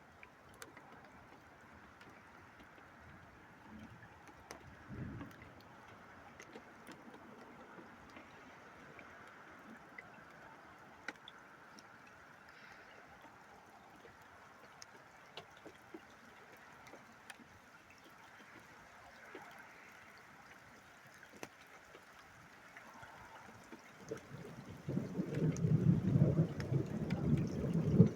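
Thunder rolling in loudly about 25 seconds in, a deep rumble that swells and carries on. Before it there are only faint scattered ticks of water drops over a low hiss.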